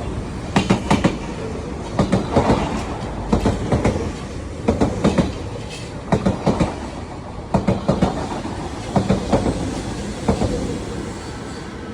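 Train wheels clacking over rail joints: short clusters of clacks about every second and a half over a steady rumble of the moving train.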